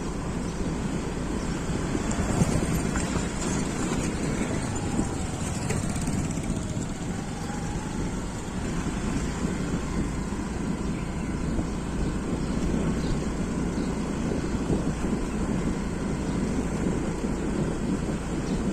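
Motorcycle being ridden along a road: a steady engine with continuous road and air noise.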